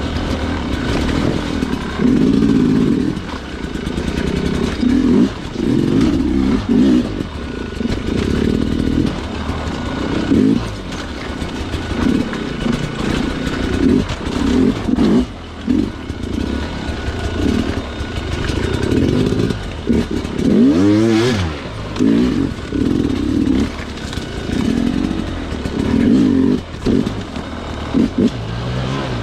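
Sherco two-stroke dirt bike engine revved in short throttle bursts, rising and falling every second or two, with one longer rising rev about two-thirds of the way through.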